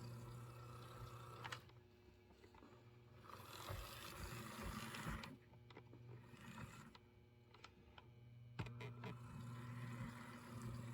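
Faint whir of a Proto 1000 Life-Like HO-scale RS-11 locomotive's motor and gears running on track, freshly lubricated after being seized. The hum fades out about a second and a half in and comes back near the end, with a few light clicks.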